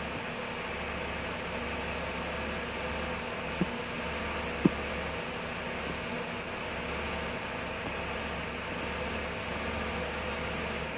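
Toyota engine idling steadily, a low even hum with hiss over it. Two short clicks, about three and a half and just under five seconds in, the second louder.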